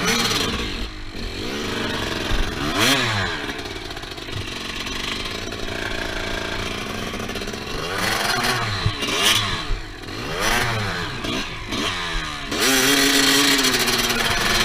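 GasGas 250cc enduro motorcycle engine revving hard on a hillclimb, the throttle blipped so that the revs rise and fall again and again. Near the end it is held at high revs for a couple of seconds.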